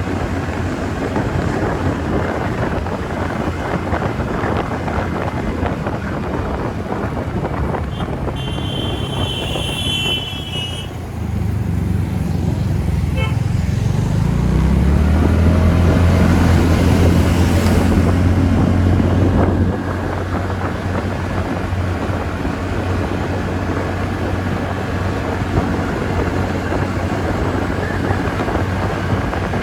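Wind and road noise on a moving TVS Ntorq scooter ride. A horn sounds for about two seconds partway through, then a low engine note rises and holds loud for several seconds before dropping back.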